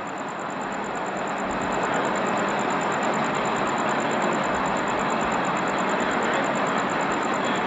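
Steady vehicle noise that grows a little louder over the first two seconds and then holds.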